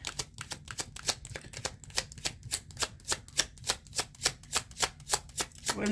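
Deck of tarot cards being shuffled by hand: a steady run of quick card clicks, about six a second.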